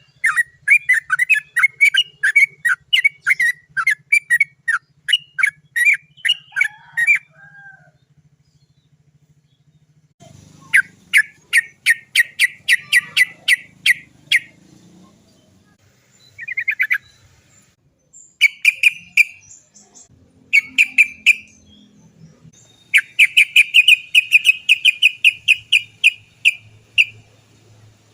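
Yellow-vented bulbul (trucukan) singing its 'cok cok cok' call: fast runs of repeated chattering notes lasting several seconds each, broken by short pauses. The longest runs come at the start and near the end.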